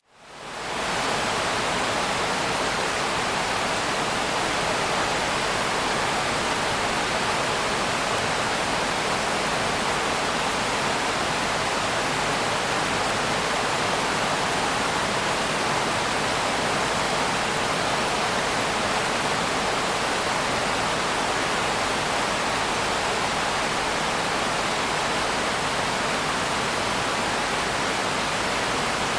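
Steady rain, an even hiss with no separate drops standing out, fading in over the first second and then holding constant.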